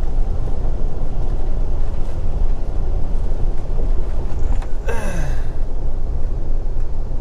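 Steady low drone of a loaded semi truck's D12 diesel engine and road noise, heard from inside the cab. A brief falling tone cuts through about five seconds in.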